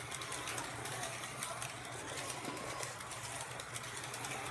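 Carrera Digital 132 slot cars' small electric motors whining as they lap the track, the pitch rising and falling with speed, with scattered light clicks.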